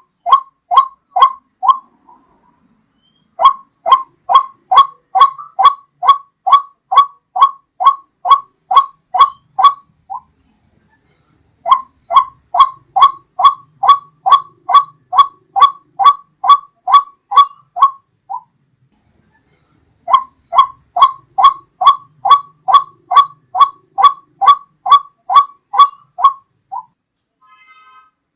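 White-breasted waterhen (ruak-ruak) calling: a loud, repeated note about two and a half times a second, in bouts of several seconds broken by short pauses. It is a recorded lure call played to attract waterhens.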